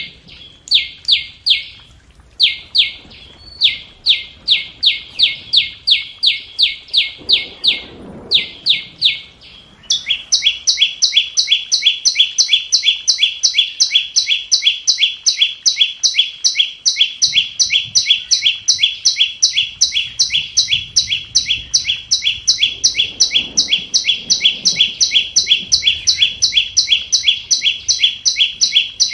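Scarlet-backed flowerpecker calling: a fast series of sharp, high, falling chip notes, about three a second, in runs broken by short gaps. From about ten seconds in the series runs on without breaks and a second, higher set of chips interleaves with it.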